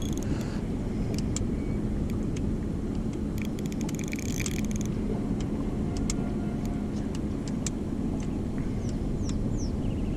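Boat engine running steadily with a low hum, and a burst of rapid clicking a few seconds in.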